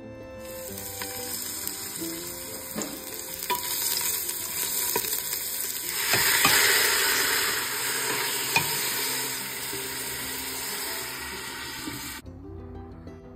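Hot oil sizzling in a steel pot as ingredients fry, with the odd knock of a utensil. The sizzle grows louder about six seconds in as more sliced pieces are slid in from a plate, and it cuts off suddenly shortly before the end.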